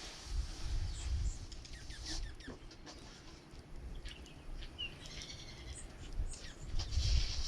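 Small birds at a feeder giving short high chirps, with a quick run of repeated notes about five seconds in, over a low rumble.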